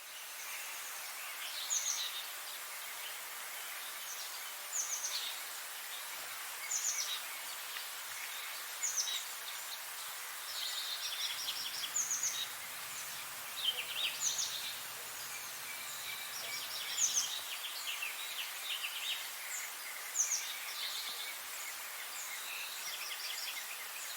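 Several birds singing and chirping, short high phrases repeating every second or two over a steady background hiss.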